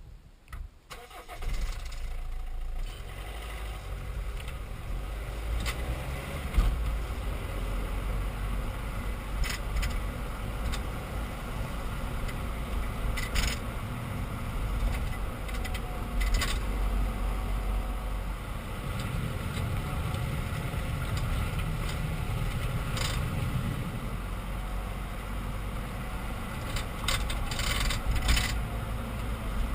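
A BMW E46 320d Touring running, with a steady low rumble and sharp clacks every few seconds from the rear axle. The clacking comes from cheap aftermarket brake pads with play in the caliper.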